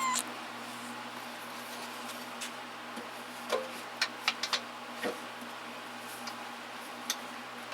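Hand tools being handled while a tool chest is sorted: a scattered run of light clicks and clinks, most of them in the middle, over a steady low electrical hum.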